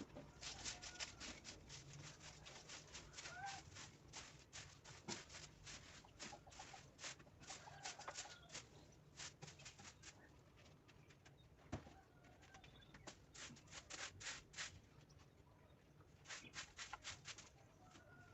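Faint, quick scratchy strokes of a broom sweeping, coming in runs with short pauses, mixed with a few soft clucks from a hen.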